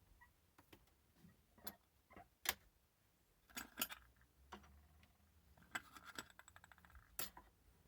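Metal parts of a 1960s Autopress pressure coffee machine being handled: scattered light clicks and clinks, with a quick rattling run of ticks about six seconds in.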